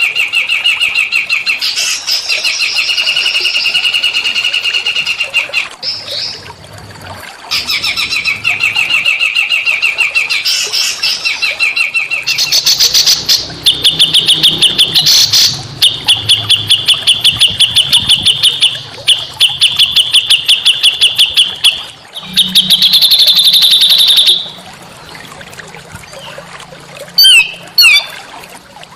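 Small songbird singing long, rapid, buzzy trills. Each trill holds a steady high pitch for a few seconds, with short gaps between them. Near the end come a few quick downward-sweeping notes.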